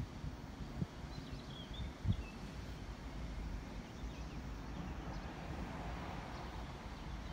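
Low wind noise on the microphone, with a few faint, short high bird chirps from about one to two and a half seconds in and again around four seconds in; two brief low bumps near one and two seconds.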